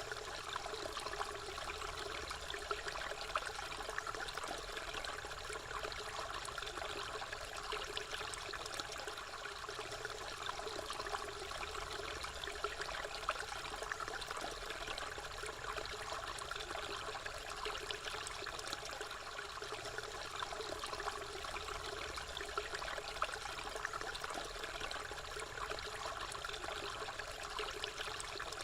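Running water trickling steadily, with no let-up.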